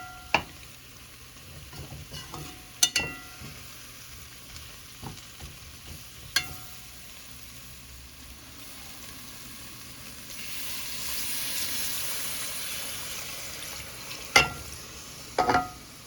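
Chicken frying in a pot with a spoon stirring and clinking against the pot several times. The sizzle swells louder for a few seconds about ten seconds in.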